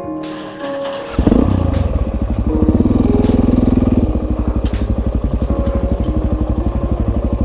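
Suzuki DR-Z400S single-cylinder engine running under way on the trail, with steady exhaust pulses. Its sound drops off for about the first second, then comes back strongly and carries on.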